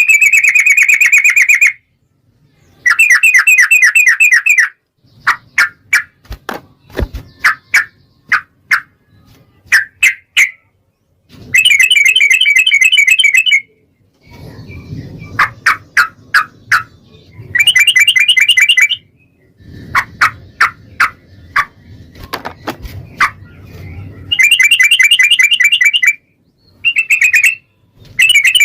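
Sooty-headed bulbul singing loud, rapid trilled phrases of about two seconds each. Between the phrases come runs of short, sharp single notes.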